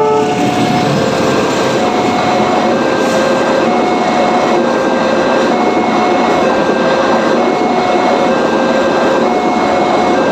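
Passenger train rolling past a level crossing in a loud, steady rush of wheel and carriage noise. Over it, the crossing's warning alarm alternates between two tones, about one tone a second.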